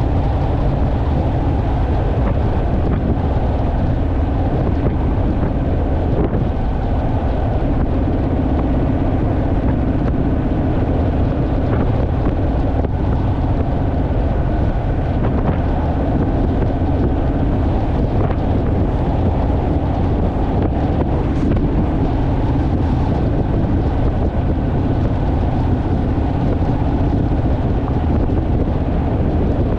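Honda Rebel motorcycle's parallel-twin engine running at a steady cruise, with heavy wind noise on the microphone.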